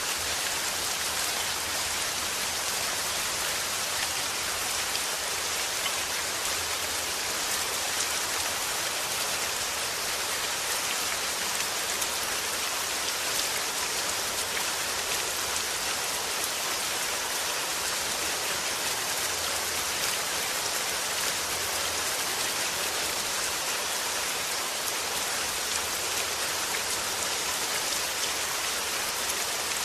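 Steady rain falling, a continuous hiss of drops pattering on a surface.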